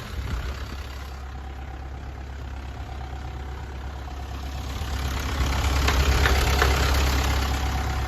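Mitsubishi Canter truck's 4D35 four-cylinder diesel engine idling steadily after a rev, growing somewhat louder in the second half.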